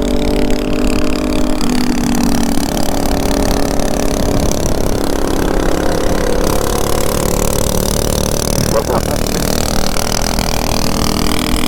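Motorcycle engines running at a steady cruise while riding, with a dense rush of wind on the microphone.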